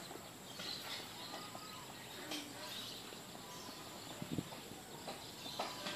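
Faint outdoor ambience with small birds chirping, a few soft rustles, and a short low thump about four seconds in.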